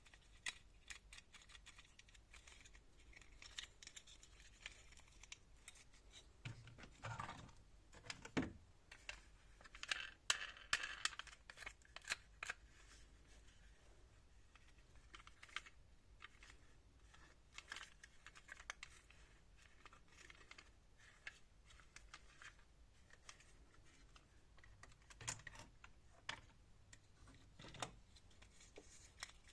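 Faint handling noises: scattered light clicks and taps with a few short rustles, the busiest stretch about ten seconds in.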